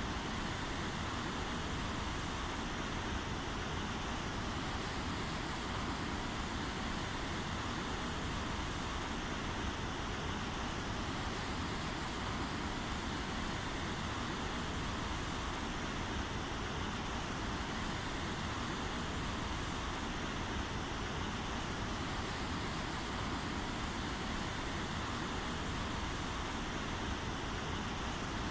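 Steady rainfall, an even hiss of falling rain that doesn't change.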